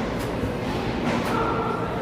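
Ice hockey rink during play: skate blades scraping the ice twice, about a second apart, over a steady arena hum with faint voices.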